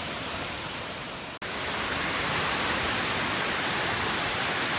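Steady rushing hiss of a waterfall's falling water. It cuts out for an instant about a second and a half in, then comes back louder.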